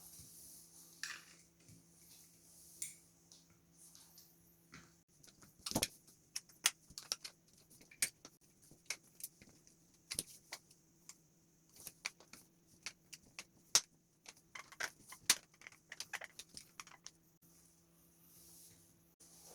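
A quick run of small clicks and taps of hard plastic parts being handled, dense from about five seconds in to about seventeen seconds in. A faint steady hum sits under the quieter stretches at the start and near the end.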